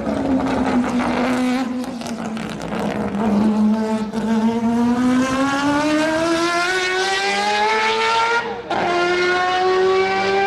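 A motocross bike's engine at high revs: the pitch falls for a few seconds, then climbs steadily as it accelerates. About eight and a half seconds in there is a sharp short drop, as at a gear change, and then it climbs again.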